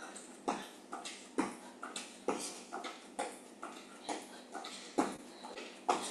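Sneakers landing on the floor over and over during jumping jacks, a steady rhythm of about two landings a second, with hard breathing.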